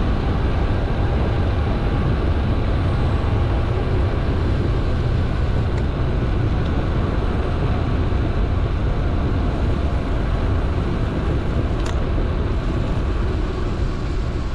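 Steady rushing noise with a heavy low rumble from a moving mountain bike: wind on the GoPro's microphone and tyres rolling over the trail. A couple of faint clicks.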